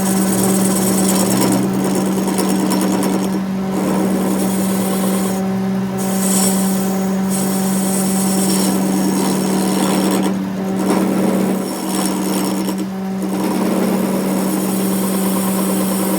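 A workshop power tool or machine running steadily with a constant hum and a rasping, grinding noise that briefly drops out a few times.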